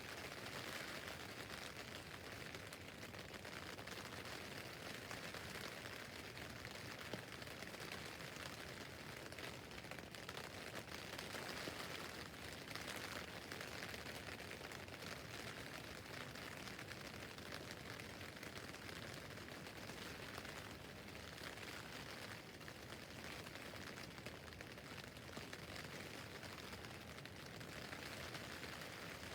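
Rain falling on a tent roof: a dense, steady patter of drops on the fabric that swells and eases gently every several seconds.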